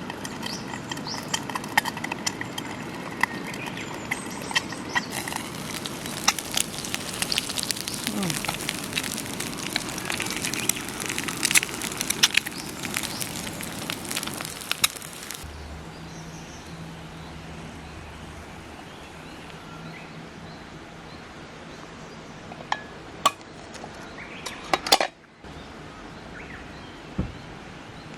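Wood fire crackling with many sharp pops and a sizzling hiss for about the first half. It then gives way abruptly to a quieter steady low hum with a few scattered clicks.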